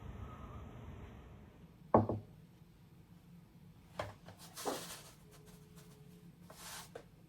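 Household handling sounds: one sharp knock about two seconds in, then lighter clicks and short rustles, with a low hum fading out at the start.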